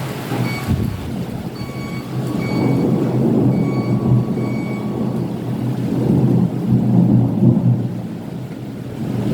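Thunder rumbling in long rolling swells over steady rain, loudest around the middle and again near the end. Faint short high beeps repeat through the first half.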